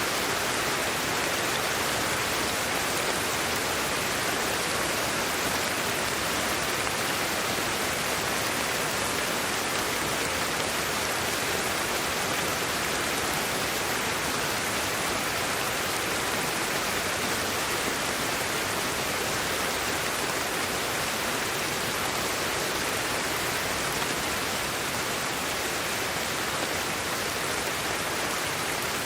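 Steady, unchanging white-noise hiss spread evenly across the range, lighter in the lowest bass.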